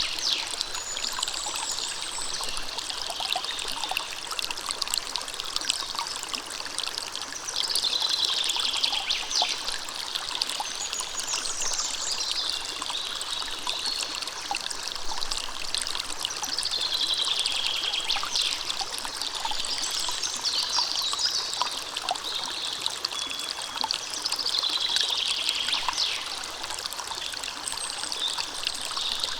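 A stream running and trickling in a steady wash of splashing water. A bird sings a short gliding phrase every four or five seconds over the water.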